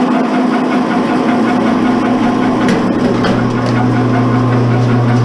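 Motorized scrap wire stripping machine running steadily with a low hum, working insulated BX cable wire; the hum grows stronger a little past halfway.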